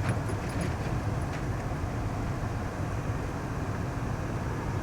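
Steady low rumble of a four-wheel-drive vehicle's engine and tyres, heard from inside the cabin while it drives slowly through snow, with a few faint ticks in the first second or so.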